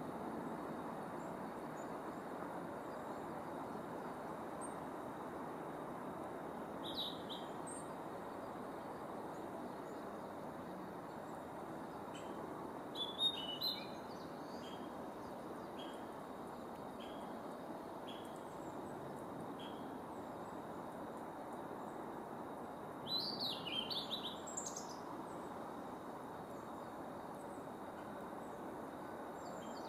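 Male blue-and-white flycatcher singing: short high, warbled song phrases spaced several seconds apart, with a row of brief evenly spaced notes in between, over a steady background hiss.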